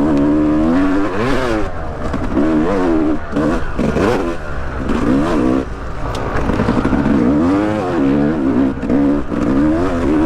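Yamaha YZ250X two-stroke dirt bike engine being ridden on a trail, its pitch rising and falling over and over as the throttle is worked on and off, with a few knocks and clatters along the way.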